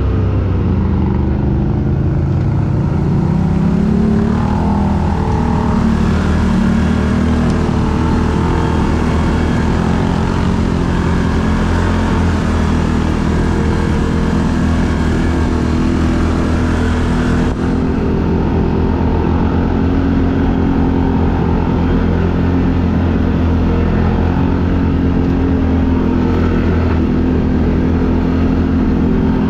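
Quad bike (ATV) engine running under load; its revs climb over the first few seconds, then hold steady.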